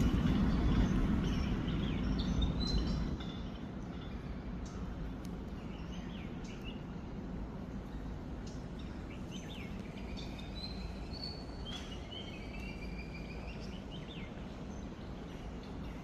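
Small birds chirping and whistling, with short calls and brief sweeping notes, over a steady background hiss. A louder low rumble fills the first three seconds, then fades away.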